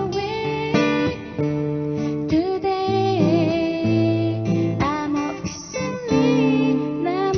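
Acoustic guitar strumming chords, accompanying a woman's singing in a Korean pop song.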